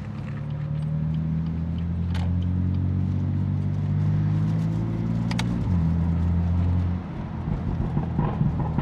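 BMW F80 M3's twin-turbo inline-six pulling under throttle, its pitch climbing steadily for about five seconds. It gives a sharp crack and dips in pitch as it shifts up, then lets off at about seven seconds, and scattered exhaust crackles follow near the end.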